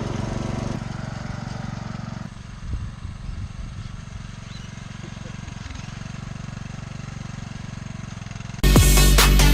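Tractor engine running steadily, dropping to a lower, quieter note about two seconds in. Loud music cuts in near the end.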